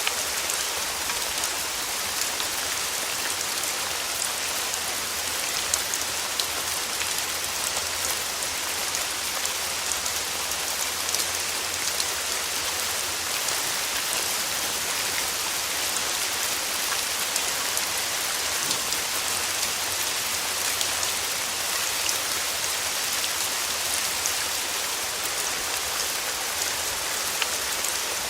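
Steady rain, with the patter of individual drops striking a surface throughout.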